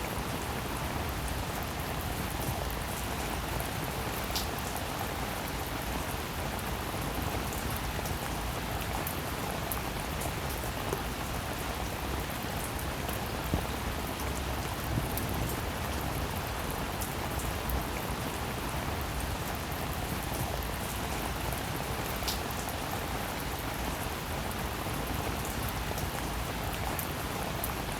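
Steady rainfall, an even hiss of rain on a surface, with scattered individual drops ticking out more sharply here and there, one louder tick a little past halfway.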